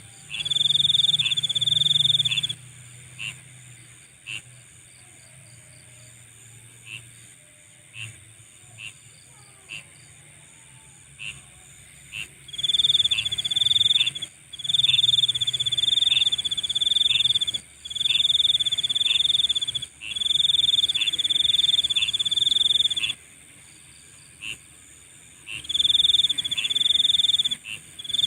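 Night chorus of insects: a loud, high, pulsing trill in bouts of two to three seconds, with short single chirps about once a second. The trill stops for about ten seconds after the first couple of seconds, leaving only the chirps, then returns in repeated bouts.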